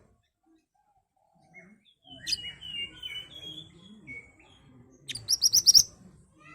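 Mantenan songbird calling. After a quiet start comes a run of short, varied whistled notes, then about five seconds in the loudest part: a rapid burst of about six sharp high notes.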